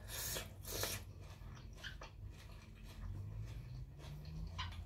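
A person chewing close to the microphone, with two louder wet smacks in the first second, then quieter mouth clicks. The food is blanched squid.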